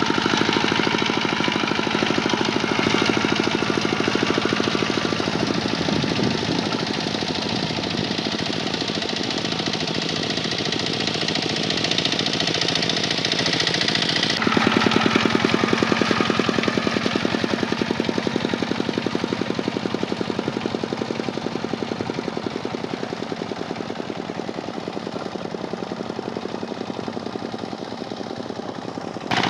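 Kubota tractor's diesel engine running steadily with a fast, even clatter, working while plowing. About halfway through the sound jumps abruptly and a little louder, then grows gradually quieter toward the end.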